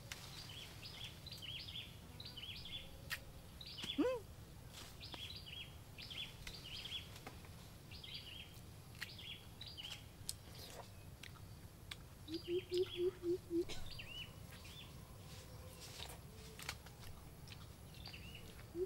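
Small birds chirping over and over with short high calls, against a steady low background rumble. About four seconds in comes a single loud rising whistle-like call, and around twelve seconds in a quick run of about six low pulsed calls.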